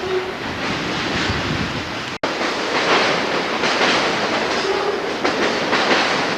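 Freight train rolling past, its cars' wheels clattering over the rail joints in a steady rumble. The sound drops out for an instant about two seconds in, at an edit.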